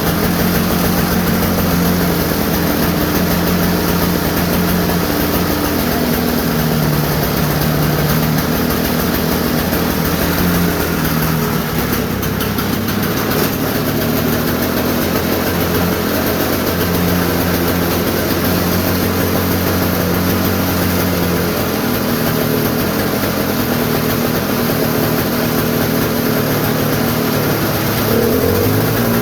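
Toro snowblower engine running steadily after a cold start, its first run after a year in storage. Its speed shifts up and down a little now and then.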